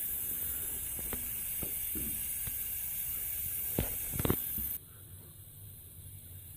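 Steady hiss of compressed air being fed through a homemade smoke leak tester, which cuts off suddenly about five seconds in. Light clicks and knocks of handling come through the hiss several times.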